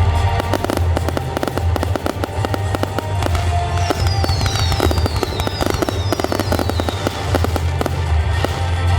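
Fireworks going off in rapid succession, a dense run of cracks and bangs, over loud music with a heavy steady bass. From about four seconds in, several high whistles fall in pitch.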